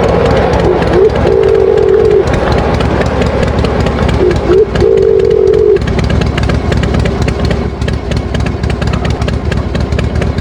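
Farm tractor engine idling steadily. Two held, even tones of about a second each sound over it, one about a second in and another about four and a half seconds in.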